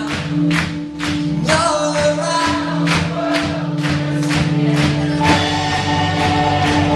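Live band playing a rock-style worship song, with a drum beat about twice a second, sustained bass and guitar notes, and voices singing together.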